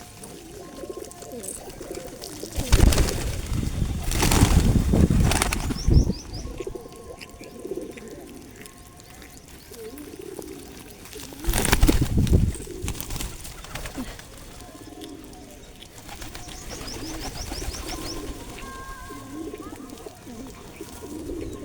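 Pigeons cooing over and over, with two loud bursts of wing flapping, one about three seconds in lasting a few seconds and a shorter one about twelve seconds in. A few small birds chirp faintly in between.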